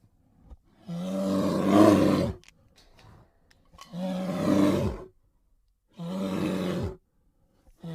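Bear roaring three times, each roar a second or so long, with a deep pitched tone that drops at the end.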